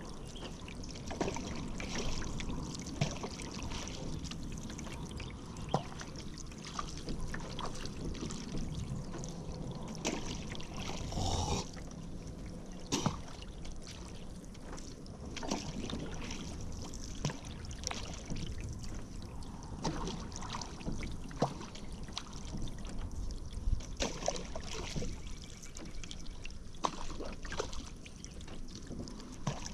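Paddle strokes in river water: the blade dipping and pulling, with water dripping and trickling off it in small irregular splashes.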